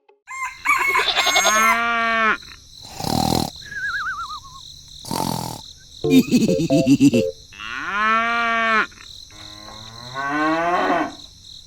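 Cow mooing: about three long calls, with two short hissing bursts and a brief wavering tone between them.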